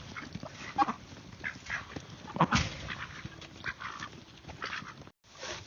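Ducks quacking in a series of short calls, with a louder knock about halfway through.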